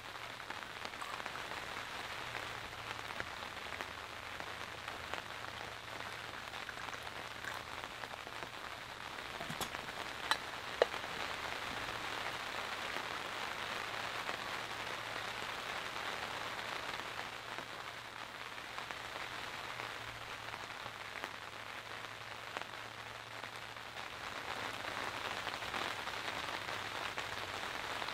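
Steady rain falling on the tent fabric overhead, heard from inside the tent as an even patter. A single sharp knock stands out about eleven seconds in.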